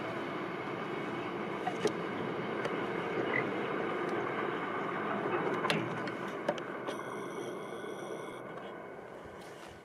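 A passing train's steady running noise, with a few sharp clicks, fading away over the last few seconds as it moves off.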